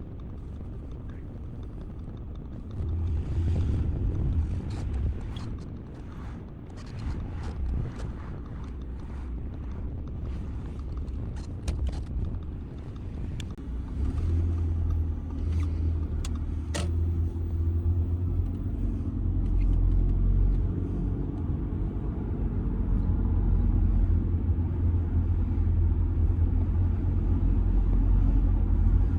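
Audi A6 C6 2.0 TDI's four-cylinder diesel engine running, with road noise, as the car is driven at low speed, with scattered short clicks and knocks. About halfway through the low rumble deepens and grows louder, as under acceleration.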